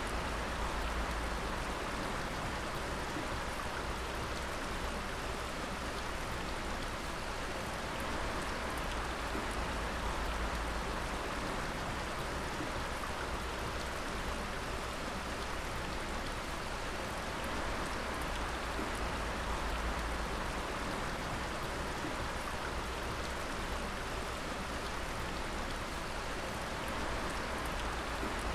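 Water dripping and falling in a steady, dense patter, with no pauses or changes.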